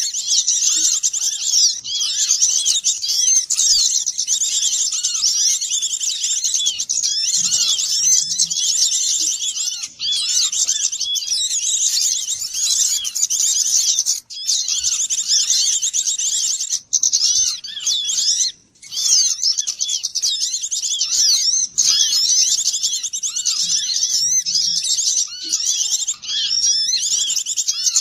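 Dense chorus of many small songbirds chirping and twittering rapidly and all at once, high-pitched and continuous with a few brief breaks: a bird-lure recording of noisy small birds used to draw others in.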